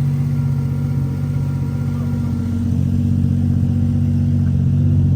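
Car engine idling steadily, a deep even rumble that eases off slightly about a second in and picks back up at around three seconds.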